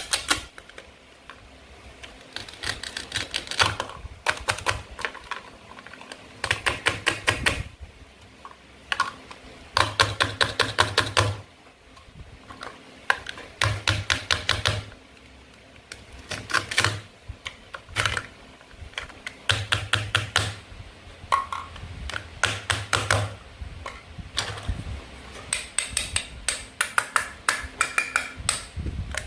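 Toy knife cutting play fruit and vegetables, giving short runs of rapid sharp clicks, one run every second or two.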